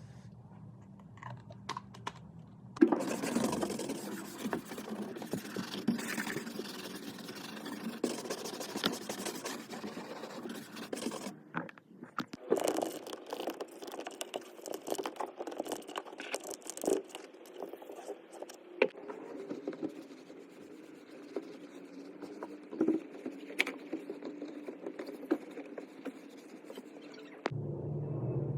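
Scrubbing and wiping on a car door: a continuous scraping rub with small clicks, starting about three seconds in, pausing briefly near the middle, then going on again.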